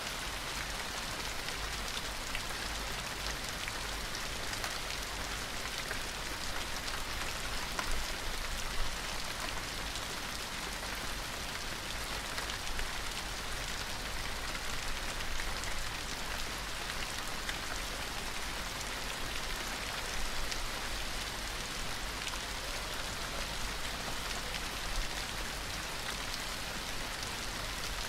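Steady rain falling on a surface, a continuous hiss with many small scattered drop ticks.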